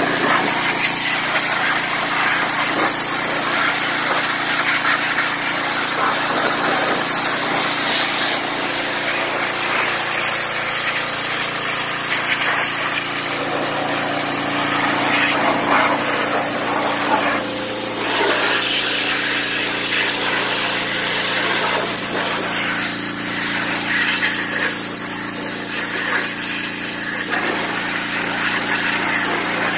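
Pressure washer running: a steady engine hum under the hiss of the water jet spraying, with the hum dropping slightly in pitch about halfway through.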